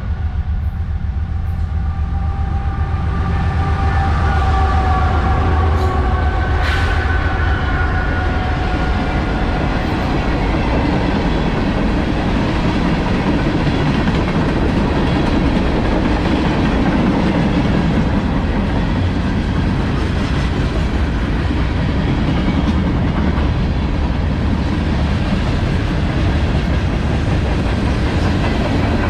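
Freight train passing close by. For about the first eight seconds there is a heavy rumble with a few steady tones, fitting the lead GE diesel locomotives going by. After that comes steady rolling noise with clickety-clack of the wheels over the rail joints as the empty coal cars and manifest cars follow.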